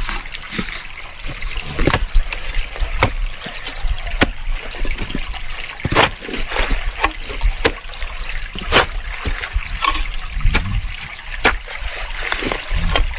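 A small stream of water trickling, with irregular sharp wet slaps and knocks every second or so as clay is shovelled and packed into a small dam across it.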